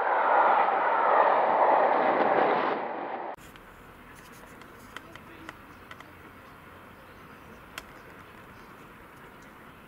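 Maroon West Coast Railways passenger coaches passing close by at speed, a loud rush of wheels on rail and air that drops away about three seconds in. The sound then cuts sharply to a quiet steady background with a few faint clicks.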